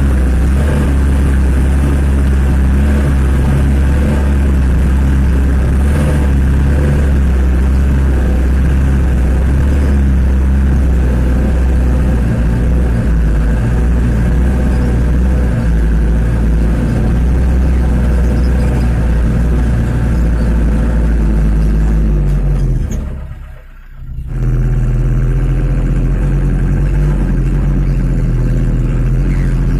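1995 Mitsubishi Canter truck's diesel engine running steadily under load as the truck drives, with a loud low drone. About three-quarters of the way through the sound drops away sharply for about a second, then comes back at the same level.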